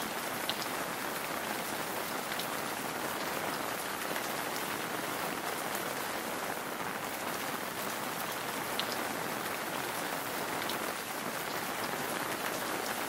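Heavy rain pouring down on forest foliage and a river: a steady, even hiss with a few sharper drop hits here and there.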